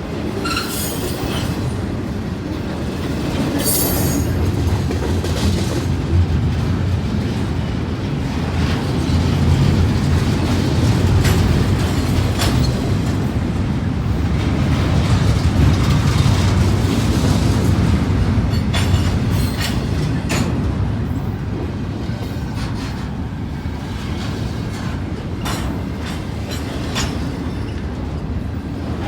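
Freight cars of a Canadian National train rolling past: a steady low rumble of wheels on rail that swells and eases, with irregular clicks over rail joints and brief high-pitched wheel squeals in the first few seconds.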